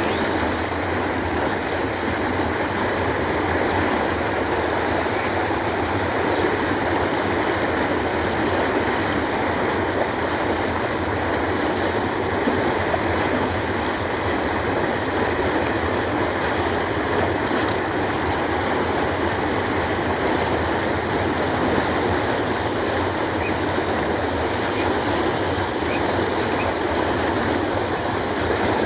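Canal water flowing steadily, an even rushing without a break.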